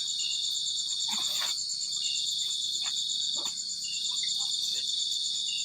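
Crickets chirping in a continuous, steady high-pitched trill.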